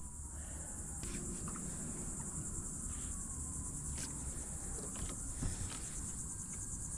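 A steady, high-pitched chorus of insects, with a few faint clicks scattered through it.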